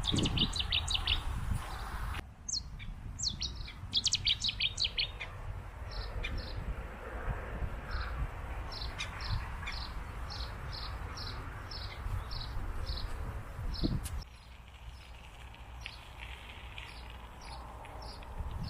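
Small birds singing with quick high chirps and trills, including a long run of the same short note repeated about twice a second through the middle.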